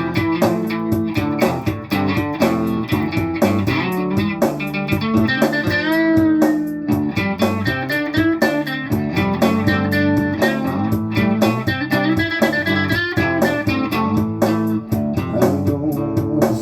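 Instrumental break of a blues-rock song: electric guitar lead with bending notes over bass guitar and drums keeping a steady beat.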